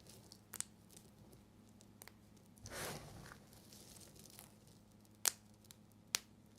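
Bar soap being cut with a knife: one short crumbly scraping cut about three seconds in, and a few sharp clicks, the loudest about five seconds in.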